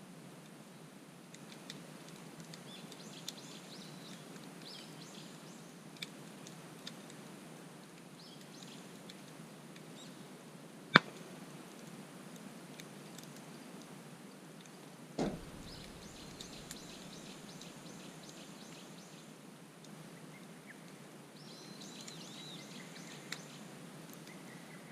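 Wood campfire crackling, with scattered sharp pops, one much louder than the rest about eleven seconds in, and a duller thump a few seconds later. Small birds chirp in several short stretches.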